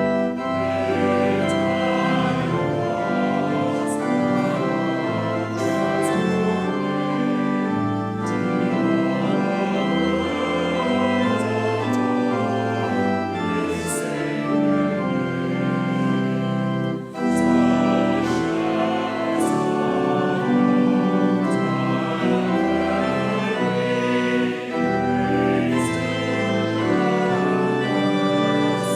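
Organ playing a hymn-like piece in full, sustained chords that change about once a second.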